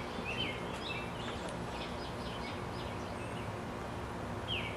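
Outdoor ambience: small birds chirping in short high notes, several in the first second and a half and another near the end, over a steady low background noise.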